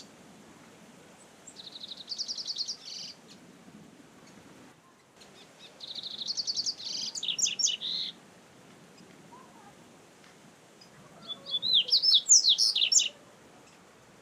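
Double-collared seedeater (coleiro) singing: three short phrases of rapid, high chirping notes a few seconds apart. Each phrase opens with a fast run of repeated notes and breaks into quicker sweeping notes.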